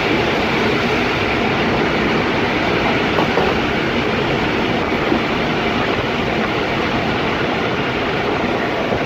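Passenger train running at speed, heard at an open carriage window: a steady, loud rushing rumble of wheels on the rails.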